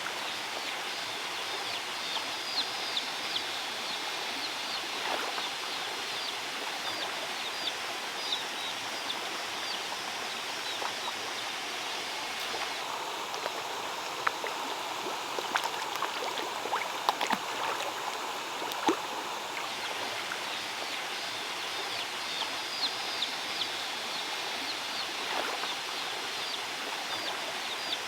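Water running steadily over a handmade stone waterfall, with birds chirping on and off and a few sharp ticks in the middle.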